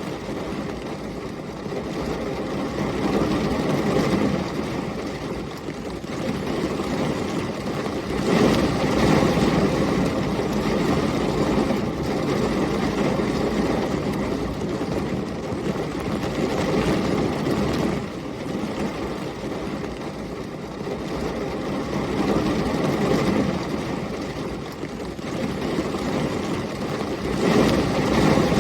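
Heavy rain with storm wind: a steady, rumbling rush of noise that swells louder about eight seconds in and again near the end.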